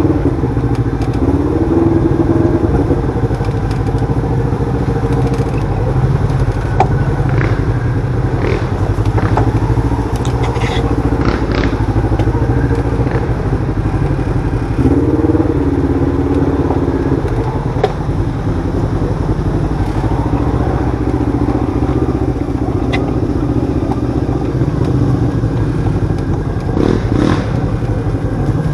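Side-by-side UTV engine running, its pitch rising and falling with the throttle while driving, with scattered knocks and clatter.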